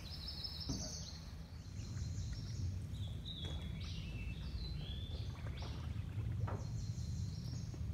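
Songbirds calling in flooded woodland: a run of short, high whistled notes at changing pitches, over a low steady rumble of wind on the microphone.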